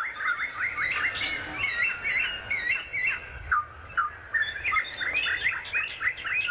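Songbirds chirping and singing: a fast, continuous chatter of short notes that sweep up and down in pitch.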